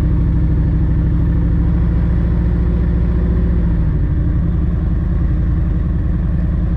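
Harley-Davidson Road Glide's V-twin engine running at low speed, its note shifting about four seconds in.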